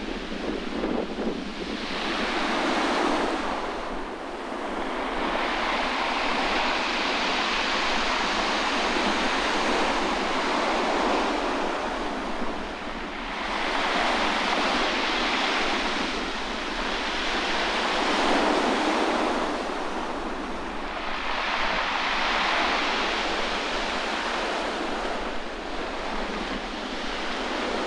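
Sea waves breaking on the shore, the surf swelling and washing back in slow surges every several seconds, with wind buffeting the microphone.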